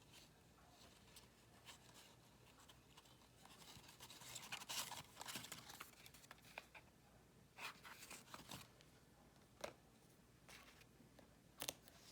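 Faint rustling of paper and card stock being handled, in short spells about four seconds in and again around eight seconds, with two sharp taps later on.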